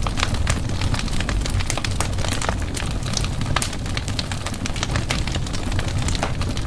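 Wood fire burning in a fireplace, crackling with frequent, irregular sharp pops over a steady low rumble.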